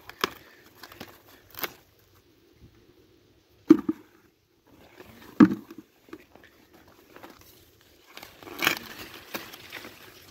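Ears of green corn being snapped off the stalks by hand, with rustling of the dry corn leaves and two sharp snaps a little under two seconds apart near the middle.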